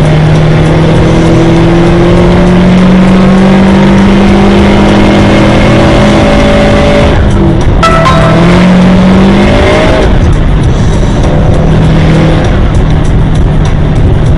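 Car engine under hard acceleration, its pitch climbing slowly for about seven seconds, dipping briefly, then climbing again before settling.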